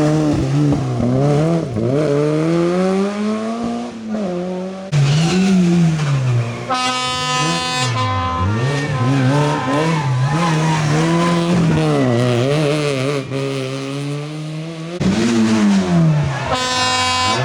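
Rally car engines revving hard, the pitch climbing and dropping again and again through gear changes and braking. A high steady squeal sounds for about two seconds starting around seven seconds in, and again near the end. The sound changes abruptly about five seconds in and about fifteen seconds in.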